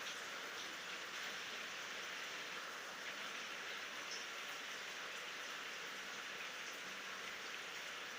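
Steady rain falling, a constant even hiss with faint scattered drop ticks, and no thunder.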